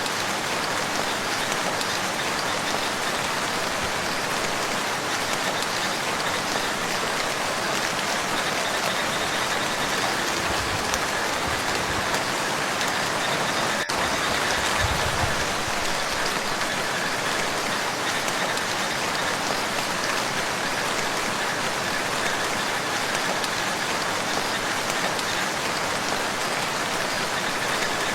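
Steady rain falling on a lake: an even, unbroken hiss of drops striking the water.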